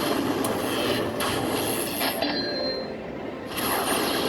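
Noisy casino-floor din from slot machines, with a few short high electronic tones.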